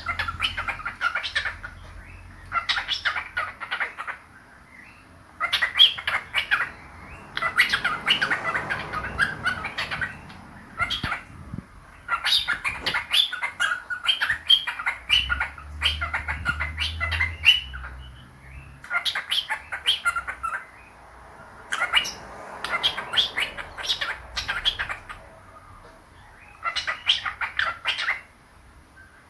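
Pet cockatiel and budgies chirping and chattering in repeated quick bouts, each a second or few long, with short pauses between.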